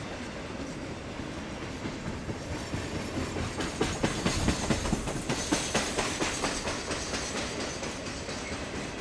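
Triple Crown RoadRailer train rolling past, its wheels clacking over rail joints above a steady rumble. The clacks come in quick clusters, loudest about halfway through, and thin out near the end.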